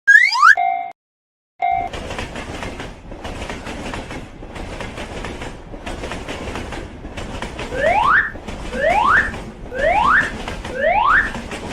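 A train passing, its wheels clattering in a rough rhythm about once a second; it starts a couple of seconds in. From about two-thirds of the way through, a short rising whistle-like tone repeats about once a second over it. A brief cartoon effect of rising tones ends within the first second.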